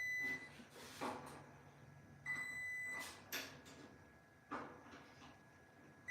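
Multimeter continuity beeper giving a steady high-pitched beep as the test probes close a circuit that has continuity. One beep lasts most of a second, starting a little over two seconds in; another is just ending at the start and a third begins at the very end. Short scrapes and taps of the probes come in between.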